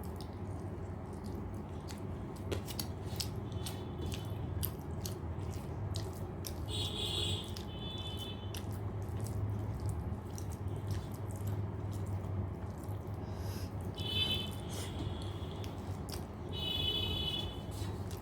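Close-up wet chewing and mouth clicks of a person eating rice with dal, many small smacks in an irregular rhythm over a steady low hum.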